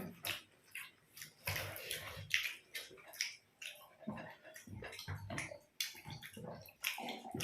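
Wet chewing and mouth smacking of people eating, in irregular short clicks and smacks.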